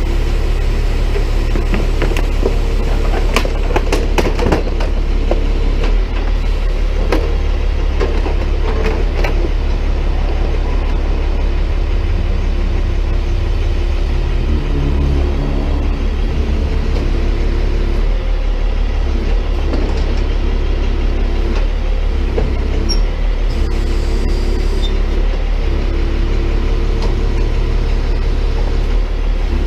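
Tow truck's engine running steadily while its arm drives a can-crusher attachment down into a trash can. A burst of sharp cracks a few seconds in, and another a few seconds later, as plastic trash shatters under the crusher.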